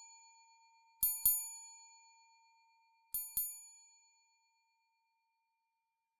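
A clear metal bell struck twice in quick succession, then again a couple of seconds later, each pair ringing out and dying away.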